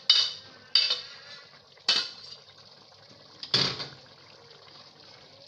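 Metal utensil knocking against a cooking pot: a few sharp clinks spaced about a second apart, then a heavier clank about three and a half seconds in.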